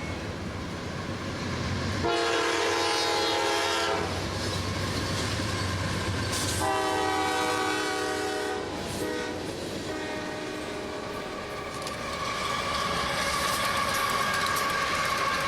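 Train horn sounding over a passing train: a long blast, a second long blast and a short one, with the train's running noise and wheels clicking underneath. A steady high tone comes in near the end.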